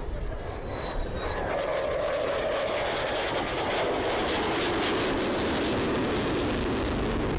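Jet noise from an F-35C's Pratt & Whitney F135 engine: a steady rushing sound whose pitch slowly falls.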